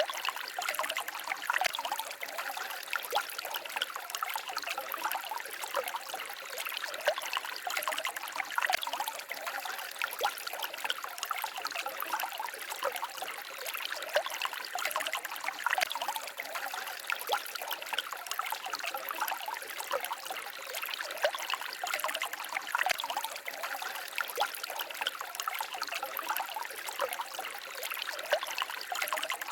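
Forest stream babbling and trickling steadily, a dense splashing water sound with little low rumble.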